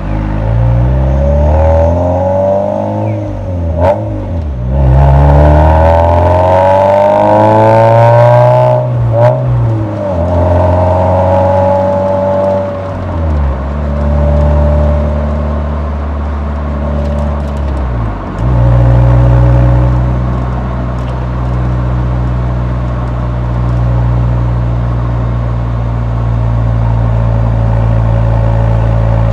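Nissan 180SX exhaust while driving: the engine pulls up through the revs and drops back at gear changes several times, the loudest climb running about five to nine seconds in, then it settles to a steady cruise from a little past halfway.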